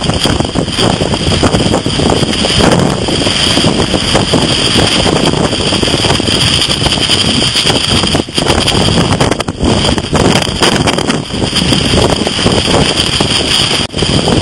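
Strong hurricane wind buffeting the microphone in a loud, steady rush, with heavy surf breaking underneath. The rush drops out briefly a few times.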